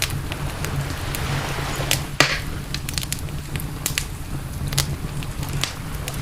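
Campfire crackling, with scattered sharp pops and one louder crack about two seconds in, over a steady low rumble.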